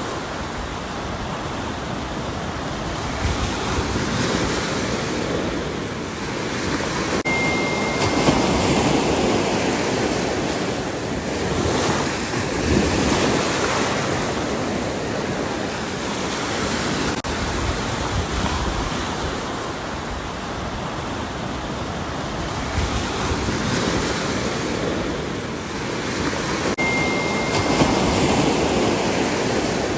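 Ocean surf: waves breaking and washing in, the noise swelling and easing every several seconds, with wind over the microphone.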